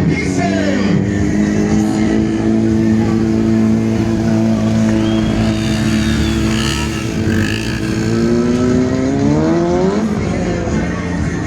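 Motorcycle engine held at steady high revs, then revved higher for about two seconds before the throttle is chopped and the revs fall, about ten seconds in.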